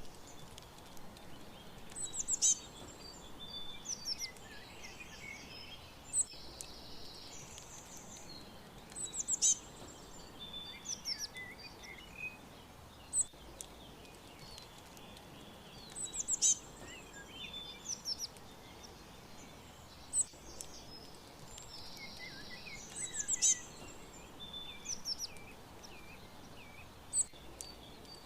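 Several wild birds chirping and calling: short high chirps and quick trills, with the loudest bursts coming about every seven seconds over a steady background hiss.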